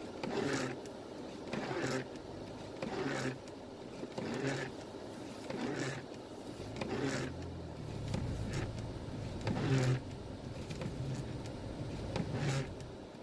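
Inside a vehicle: a steady low running hum, with a swishing stroke that repeats evenly about every 1.3 seconds, like windshield wipers sweeping.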